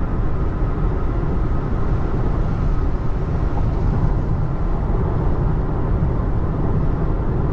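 Steady rushing road and tyre noise of a 2024 Tesla Model 3 travelling at freeway speed on wet pavement, with no engine sound since the car is electric.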